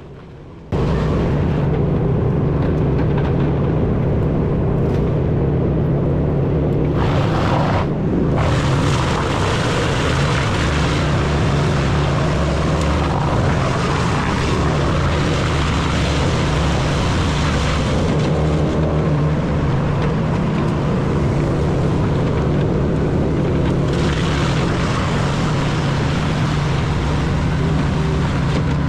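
Wood chipper running under load, a loud steady engine drone with the rushing noise of the chipping drum, cutting in suddenly about a second in.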